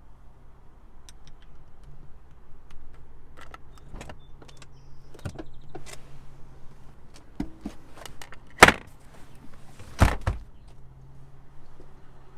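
Parts of a 2020 Toyota Sienna minivan being worked by hand: a run of clicks and knocks, then two loud thumps, the second the loudest, over a steady low hum.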